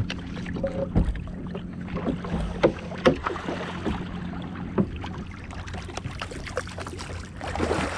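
Scattered knocks and clunks on a fishing kayak, over a low steady hum.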